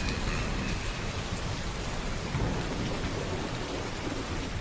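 Steady rain falling on a hard surface, with a low rumble of thunder underneath.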